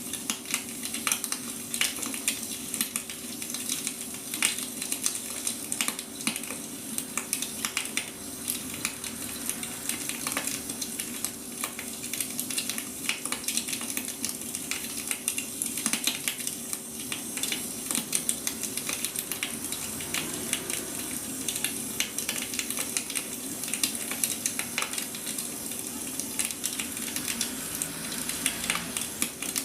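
Wood fire crackling, with dense irregular pops and snaps over a soft hiss, and a faint steady hum underneath.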